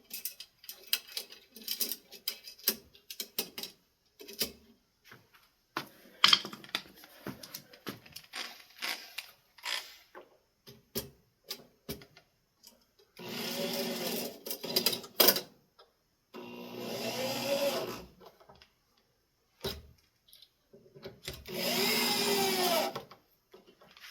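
Clicks and knocks of screws and metal parts being handled, then a power drill run three times in runs of one to two seconds each, its motor pitch sagging and recovering as it drives screws.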